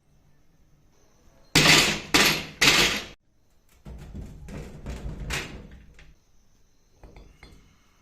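Metal parts being knocked and handled: three loud bangs in quick succession, then a stretch of lighter clattering and a faint knock near the end.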